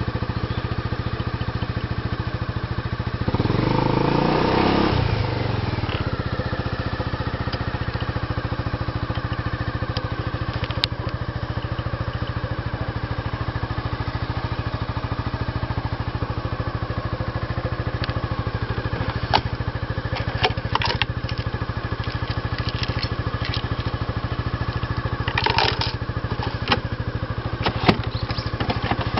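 Honda Forza Z scooter's single-cylinder four-stroke engine idling through an aftermarket Moriwaki muffler, with one short blip of the throttle about three seconds in that falls back to idle. A few sharp clicks and taps sound in the second half.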